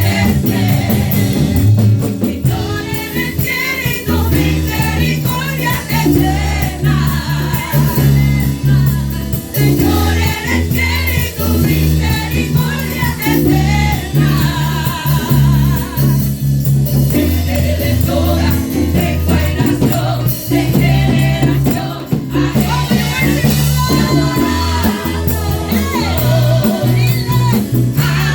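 Live worship music: voices singing a slow praise song with wavering, held notes over a band with steady bass.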